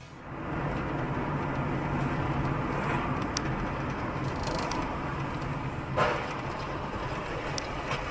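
A road vehicle running, with steady engine and road noise, a few sharp clicks, and one louder knock about six seconds in.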